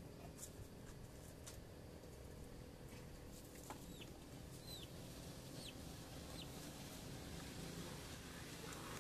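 Faint steady low rumble of outdoor background with four short, high, falling chirps from a small bird, about one a second in the middle.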